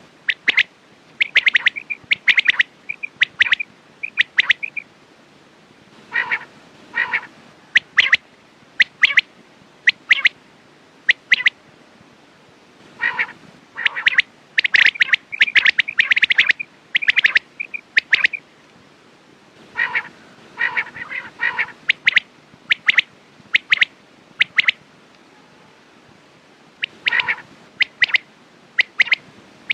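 Quail calling: groups of short, sharp repeated notes, with pauses of a second or two between the groups.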